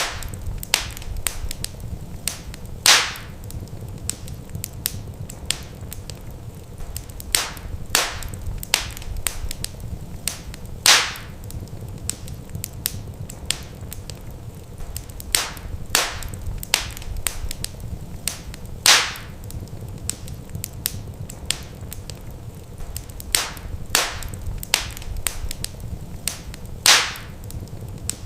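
Wood fire crackling in a fireplace: sharp snaps and pops, with a few louder cracks about every eight seconds, over a steady low rumble of the flames.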